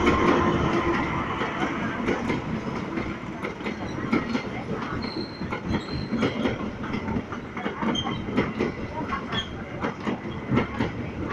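A train passing close by, its wheels clattering over the rail joints in a steady rhythm, with a few brief high wheel squeals midway; a horn tone dies away in the first second.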